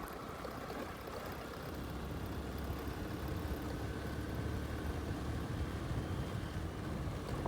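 Motorcycle engine running steadily: a low, even rumble with no revving.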